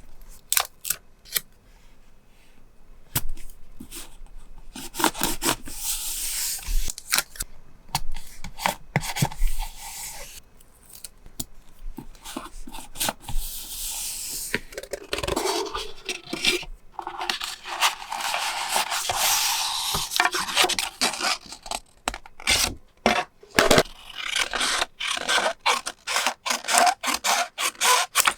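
Journal paper and stationery being handled: stretches of paper rubbing and scraping lasting a few seconds each, between many small taps and clicks.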